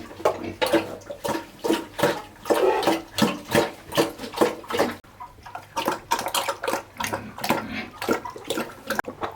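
Water splashing and sloshing in a basin in repeated, irregular splashes, as something is washed by hand.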